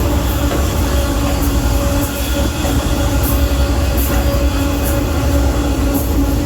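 Freight train rolling along, heard from aboard one of its cars: a steady heavy rumble with a sustained humming tone from the wheels and rails, and faint light ticks.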